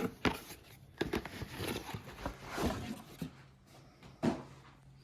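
Irregular knocks and rustling of hands handling things, about eight sharp knocks spread through, as a mower battery is taken out of its packaging, over a faint steady hum.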